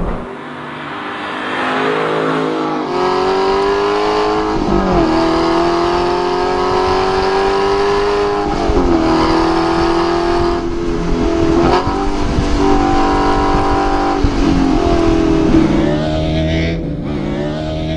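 The 4.7-litre V8 of a 2012 Aston Martin V8 Vantage S Roadster accelerating hard, its exhaust note growing louder over the first few seconds. The pitch climbs and drops back sharply several times as it shifts up through the gears.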